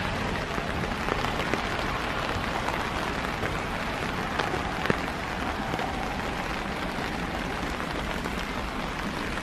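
Steady rain falling, with a couple of sharper drop taps near the middle.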